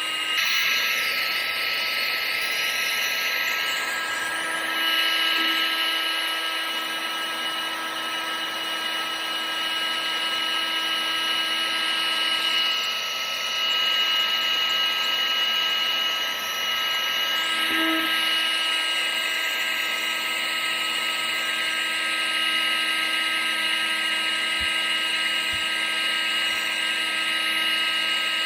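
Vacuum cleaner running steadily: a constant rush of air with a fixed high motor whine, no change in speed.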